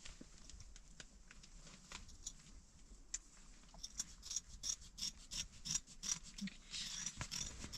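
Sewing work on a wool mattress: a run of short, crisp snipping clicks, sparse at first and coming thicker and louder from about halfway.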